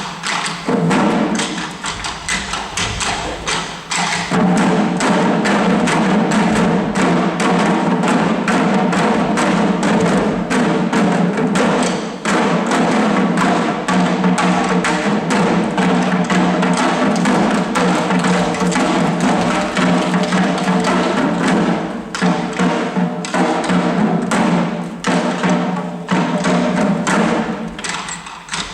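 Shishi-odori deer dancers beating the drums worn at their chests in a quick, steady rhythm. From about four seconds in, a chanted dance song in long, held notes joins the drumming and carries on until near the end.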